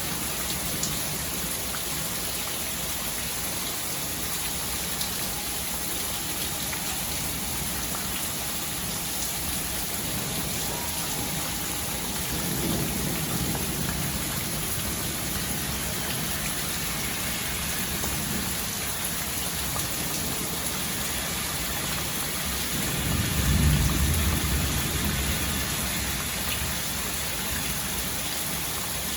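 Steady rain falling, with low rumbles of distant thunder, a fainter one about twelve seconds in and a louder one about twenty-three seconds in.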